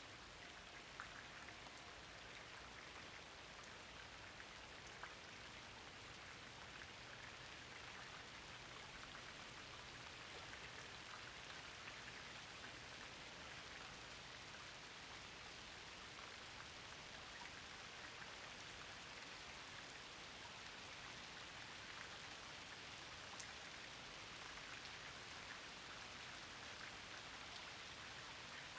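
Steady, quiet rainfall: an even patter of raindrops, with a few individual drops ticking now and then.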